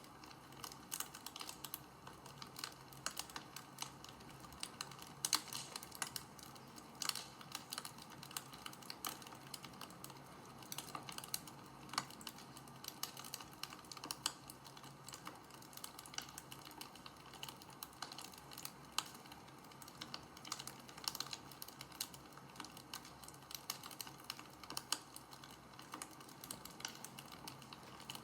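Wood fire crackling: a steady soft hiss with irregular sharp pops and snaps, a few louder than the rest.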